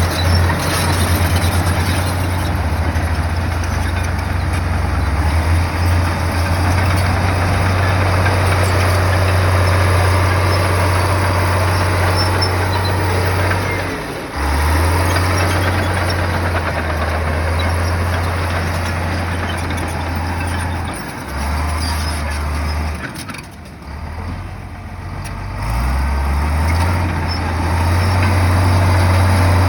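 Heavy bulldozer's diesel engine working, a deep steady drone whose pitch and level shift as the load changes. It drops out briefly about halfway through, then eases off for a few seconds near the end before building back up.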